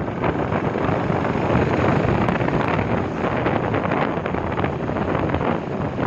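Wind buffeting the microphone of a moving motorcycle: a dense, steady rush of noise with no clear engine note.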